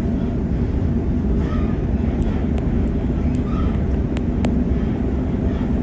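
Sydney suburban passenger train running between stations, heard from inside the carriage: a steady low rumble with occasional sharp clicks from the wheels on the track.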